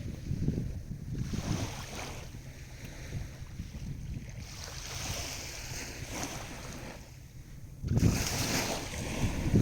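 Sea waves washing on the shore, with wind buffeting the microphone; the sound swells louder near the end.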